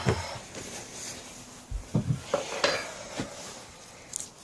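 Metal hand tools clinking and rattling, a handful of separate clinks, one with a short high ring: sockets and Allen keys being handled while working on a pocket bike engine's bolts.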